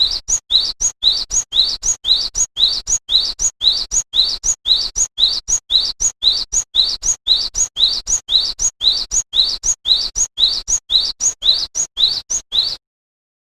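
Small songbird repeating one short, high, upward-sweeping chirp about twice a second, in a steady series that cuts off abruptly near the end.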